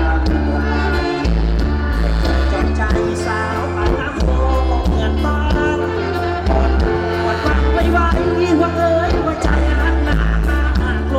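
Live band music with a singer: a heavy bass line under pitched instruments and a singing voice.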